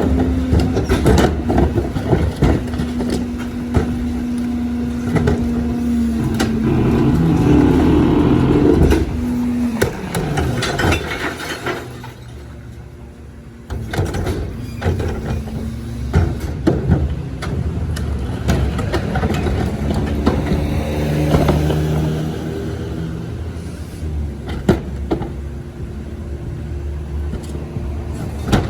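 Crane Carrier CNG recycling truck with a Leach rear-loader body at work: a steady machine hum that drops away about a third of the way in, with repeated sharp metal knocks and bangs. A quieter stretch follows, then the hum and knocks return.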